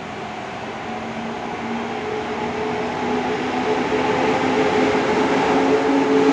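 EP07 electric locomotive hauling passenger carriages, running and growing steadily louder as it comes closer, with a hum of a few tones that slowly rise in pitch.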